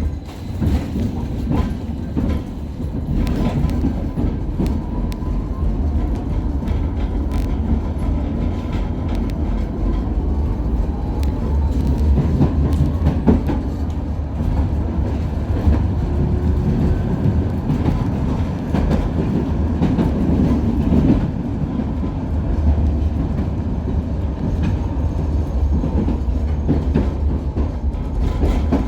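KTM-23 (71-623-04) tram running along the track: a steady low rumble of wheels on rail, with scattered clicks and knocks over the rail joints and a faint whine that rises in pitch for a few seconds near the middle.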